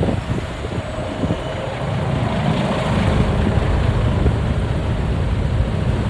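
Motorbike taxi riding through traffic, heard from the passenger seat: the engine's low rumble and road noise, with wind buffeting the microphone. The sound drops briefly at the start, then runs steady.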